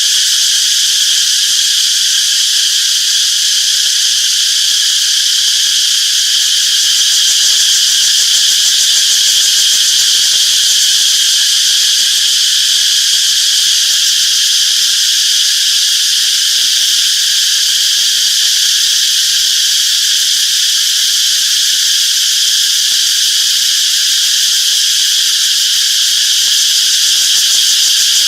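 Chorus of cicadas buzzing in a steady, unbroken high-pitched drone.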